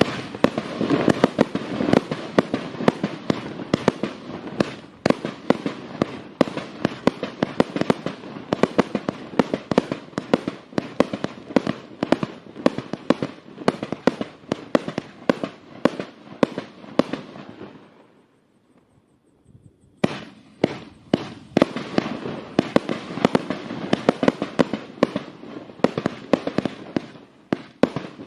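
Vivid Pyrotechnics Ziegelstein firework going off in a rapid, dense string of loud bangs and cracks. It stops about 18 seconds in, falls almost silent for two seconds, then starts firing again just as densely.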